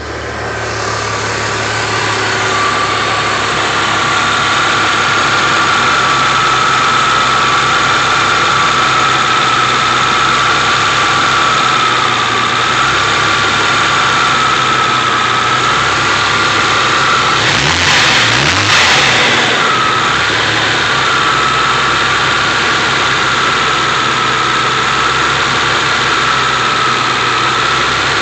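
The 4.3-litre CPI V6 of a 1993 Chevrolet S10 running at a rough idle, with a steady, slightly wavering high whine over it and a short rush of noise about eighteen seconds in. The rough idle persists despite new injection, fuel and ignition parts, its cause undiagnosed.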